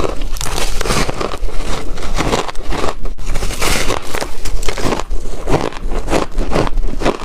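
Chunky ice being bitten and crunched between the teeth, close to the microphone: a dense, irregular run of loud cracking crunches, several a second.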